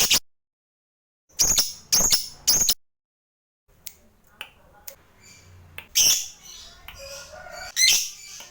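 Lovebird giving short, shrill, screechy calls in quick bursts: four in the first three seconds, then softer chatter and clicks with further loud calls about six and eight seconds in.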